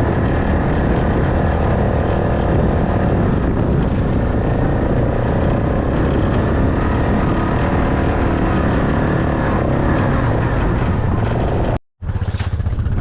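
A vehicle engine running steadily at an even pace; the sound breaks off abruptly near the end.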